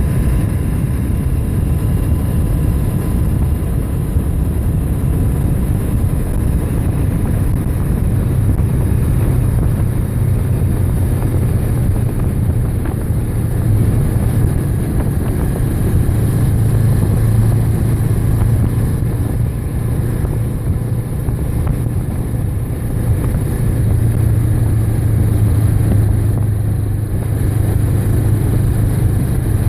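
Motorcycle under way at steady road speed: a constant low engine drone with heavy rumble on the microphone, the drone swelling slightly now and then.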